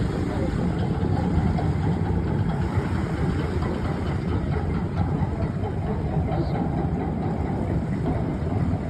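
Sandbanks chain ferry's diesel engines running steadily, a low, even drone with a noisy hiss over it.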